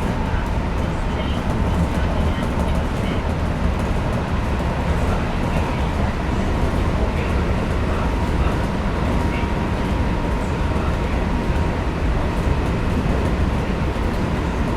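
Kintetsu 5800 series electric train running at steady speed, heard from inside the car: an even rumble of wheels on rails with a thin, steady whine over it.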